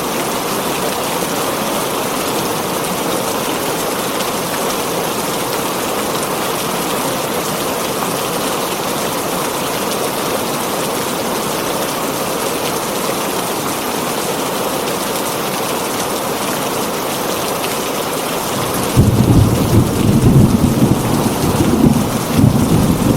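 Heavy rain falling steadily on a tin roof, then a sudden loud, low rumble of thunder breaks in near the end and keeps rolling.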